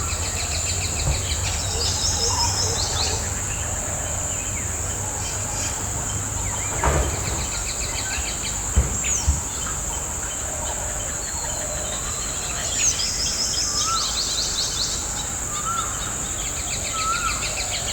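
Woodland ambience: a steady, high-pitched insect drone, with several birds calling over it in rapid trills and short whistled notes. A few dull thumps come around the middle.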